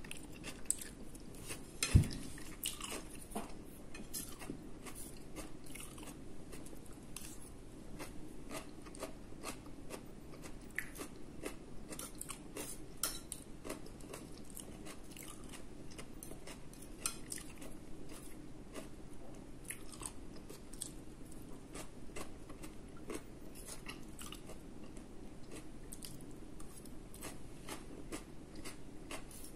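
A person chewing food close to the microphone, with many small mouth clicks and crunches, and light taps of a plastic fork on a ceramic plate. One sharper tap about two seconds in.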